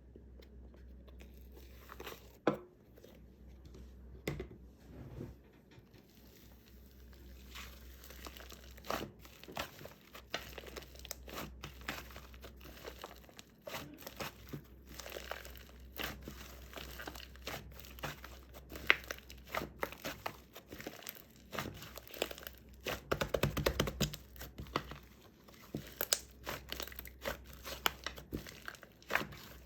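Marshmallow slime being squished and stretched by hand, giving irregular sticky clicks and crackling pops, with a dense run of them about 23 seconds in.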